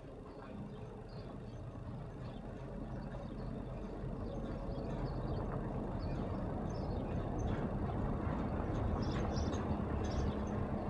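A passing vehicle, heard as a low rumble with a steady low hum that grows steadily louder as it approaches.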